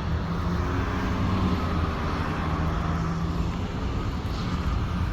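An engine running steadily with a low hum that shifts slightly in pitch a couple of times.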